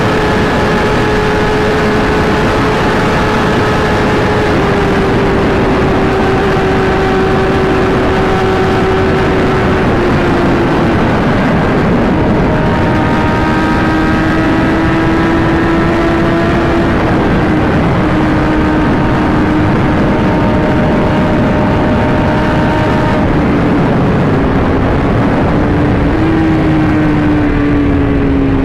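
Inline-four sport motorcycle engine running at a steady cruise, its note holding level and easing slightly lower in small steps, over a heavy rush of wind and road noise.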